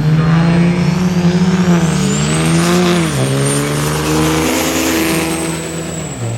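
High-horsepower diesel truck engine held at raised revs, dipping briefly about three seconds in, then dropping back toward idle near the end. A high turbocharger whistle climbs over the first few seconds, holds, and fades as the revs fall.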